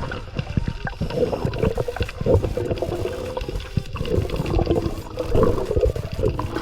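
Muffled underwater sound picked up by a submerged camera: water gurgling and sloshing, with an uneven wavering tone and low knocks.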